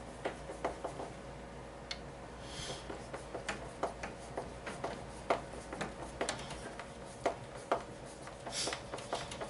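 A string of sharp, irregular clicks, about two a second, as a playfield post's screw is turned by hand into a 7/64-inch pilot hole in the wooden pinball playfield.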